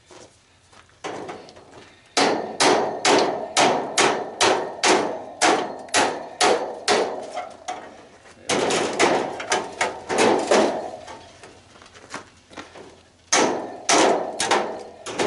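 Hammer blows on a tanning bed being scrapped, knocking at the ends where they join the centre section to break them loose. A steady run of ringing strikes at two to three a second, a quicker cluster after a short pause, then a few more near the end.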